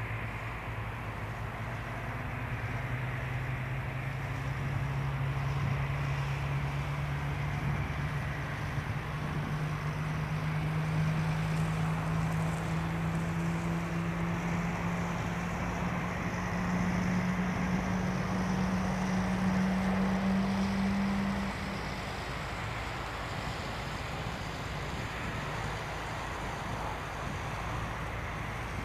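Boeing 777-300ER's GE90 engines running at high thrust, heard as a steady rush of noise. Under it a low hum climbs slowly in pitch for about twenty seconds and then cuts off suddenly, with the overall sound dropping a little. This fits the wheels rolling ever faster down the runway on the takeoff roll until the aircraft lifts off.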